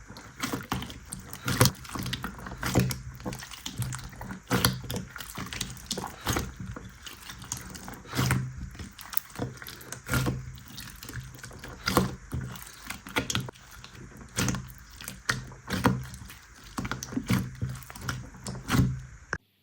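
Slime being squeezed and poked by hand, giving an irregular stream of wet clicks, pops and squelches, several a second. It cuts off suddenly near the end.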